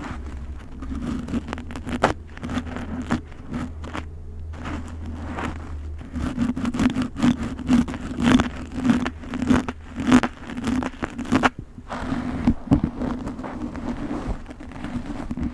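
Snack packaging being handled: plastic wrappers crinkling and rustling, with irregular clicks and taps of packets and containers being set down, busier in the second half.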